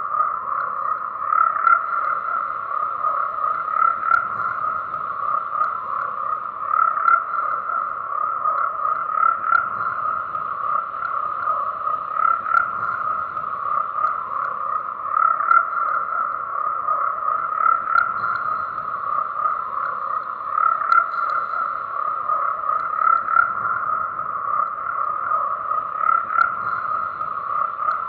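A dense chorus of frogs croaking continuously, many calls overlapping into a steady, pulsing drone without a break.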